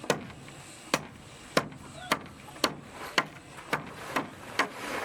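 A tool striking wood over and over in a steady rhythm, about two sharp blows a second, speeding up a little towards the end.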